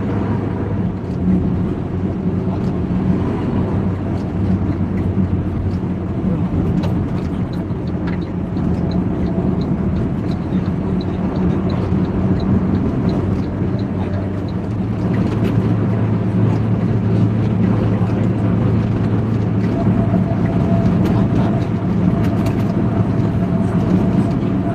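Road vehicle engine noise: a steady, continuous low drone with a noisy rumble of traffic that grows a little louder about fifteen seconds in.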